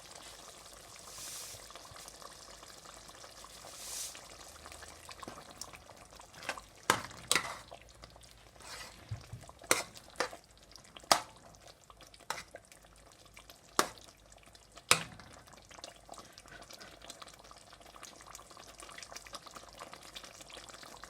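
Chicken stew in tomato sauce simmering in a pot on the stove, a low steady bubbling, while it is stirred with a utensil that knocks sharply against the pot about eight times in the middle of the stretch.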